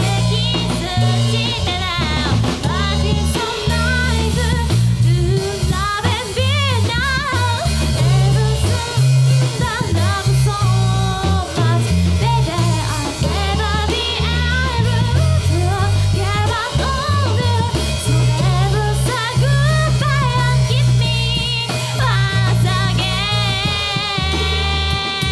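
Live rock band playing a J-pop cover: a singer's melody with wavering pitch over drum kit, electric bass and guitar, the full band playing steadily throughout.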